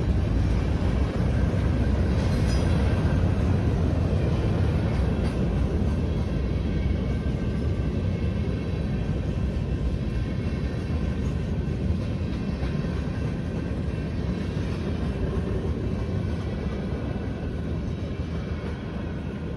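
Freight train of covered hoppers and tank cars rolling past, a steady low rumble of wheels on rail with a few sharp clicks. It grows slightly quieter toward the end.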